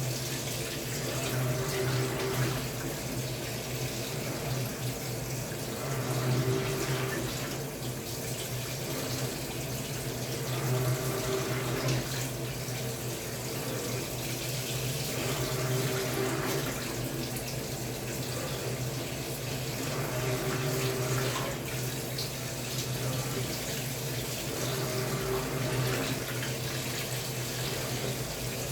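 Samsung Wobble 14 kg top-loading washing machine running its wash: a steady motor hum with water churning, in a pattern that repeats about every two seconds as the pulsator works the load.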